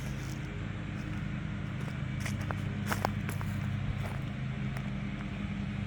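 A steady low motor hum, with a few footsteps in the yard over it.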